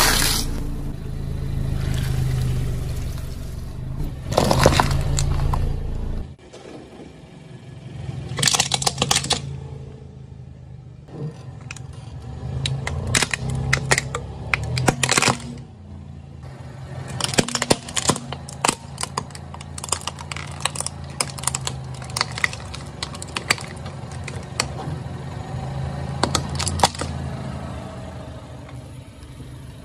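Car engine running at low speed while the tyres roll over and crush crunchy objects, giving several spells of crackling and snapping. The engine hum drops out abruptly about six seconds in, and the crunching spells come after that.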